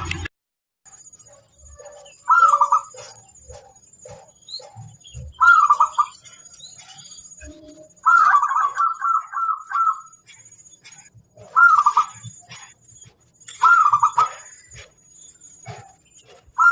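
Zebra dove (perkutut) cooing: a series of rolling coos repeated every two to three seconds, with one longer trilling phrase about eight seconds in and quieter low notes between the coos.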